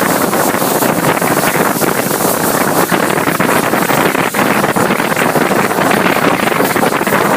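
Steady, loud rushing of wind buffeting the microphone over the running noise of a moving train.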